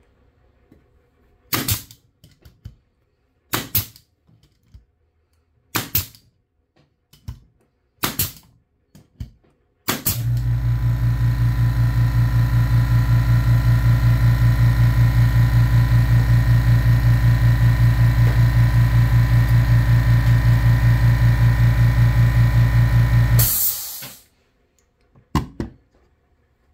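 Makita AF506 18-gauge pneumatic brad nailer firing five shots, about two seconds apart. Then the Makita MAC210Q quiet-series air compressor kicks on and runs for about thirteen seconds, a steady hum with a fast, even pulse, refilling its 2-gallon tank after the shots drew the pressure down, and shuts off abruptly.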